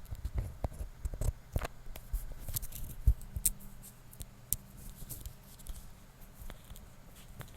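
Close-up taps, clicks and handling noise from objects worked right against a microphone, with a string of sharp clicks through the first half and sparser, softer rubbing later.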